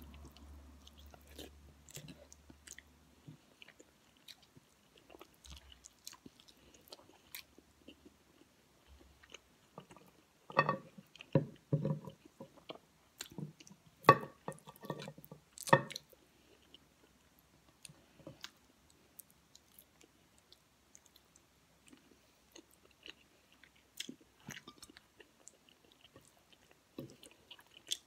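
Close-up chewing of rice and kare-kare stew eaten by hand, with soft wet mouth clicks scattered throughout and a louder stretch of chewing near the middle.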